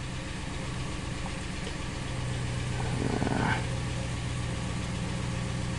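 2014 Ram 1500's 5.7-litre Hemi V8 idling steadily with a misfire on cylinder 6.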